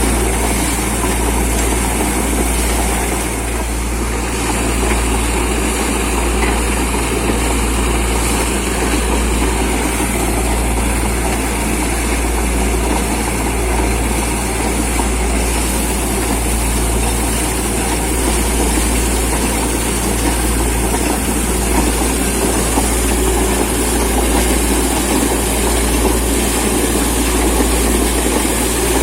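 Heavy diesel engine of a borewell drilling rig and its air compressor running steadily, with a low, even throb.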